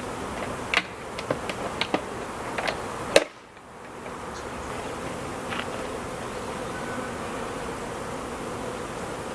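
Dense buzzing of many honeybees around open hives in a robbing frenzy. A few sharp knocks in the first three seconds, the loudest about three seconds in, followed by a brief dip in level before the steady buzz returns.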